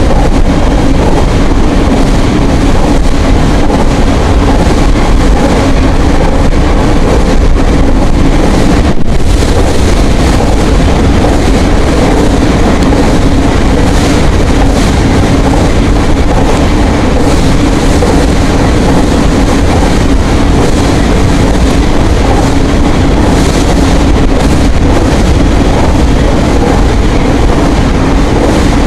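Nankai 8000 series electric train running steadily at speed: a loud, continuous rumble of wheels and running gear with a steady hum, heard from inside the leading car, with some wind noise.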